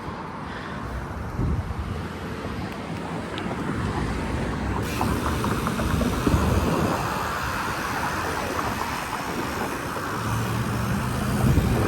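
Street and traffic noise heard while riding a BMX bike: a steady low rumble of road noise and cars, growing a little louder about five seconds in.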